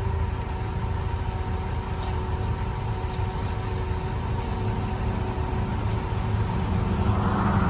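Farm machine's engine running steadily, a low rumble with a steady whine over it, while it holds a heavy bulk feed bag aloft over a feed buggy. A rushing hiss swells about seven seconds in.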